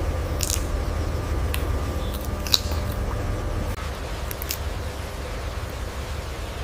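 A few scattered sharp clicks and snaps, the loudest about two and a half seconds in, over a steady low rumble.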